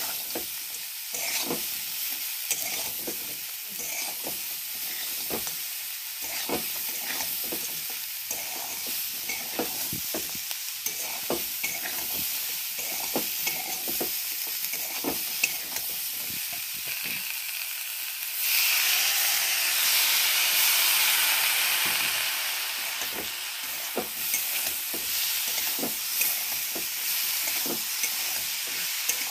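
Cauliflower filling frying in a metal pan, sizzling steadily while a spatula scrapes and knocks against the pan as it is stirred. The sizzle swells louder for a few seconds about two-thirds of the way through.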